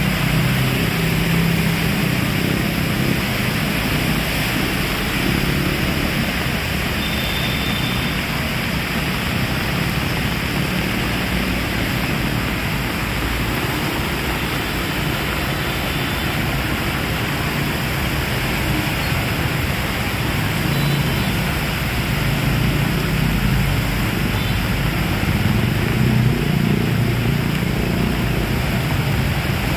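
Heavy rain falling in a steady downpour, under a low rumble that swells and fades.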